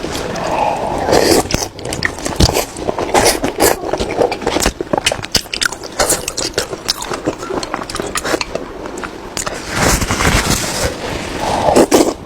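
Close-miked eating: a person biting and chewing food with quick, irregular wet smacks and clicks.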